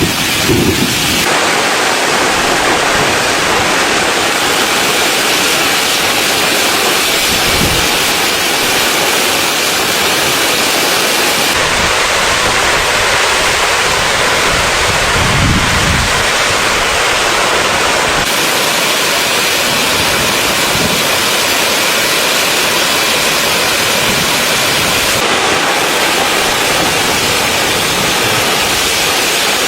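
Steady rain falling on a tent, a dense, even hiss. Its tone shifts abruptly a few times, and there are a couple of brief low rumbles.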